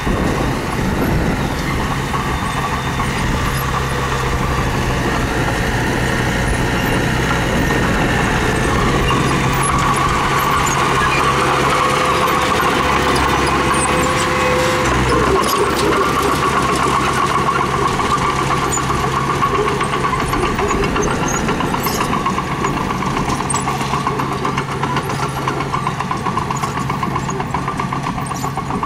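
Diesel engine of a mini bulldozer running steadily under work, with a higher whine over the engine note and a brief change of pitch about halfway through.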